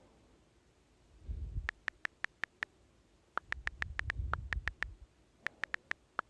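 Keyboard typing: three quick runs of short, sharp key clicks, about twenty in all, with a few dull low thumps under the first two runs.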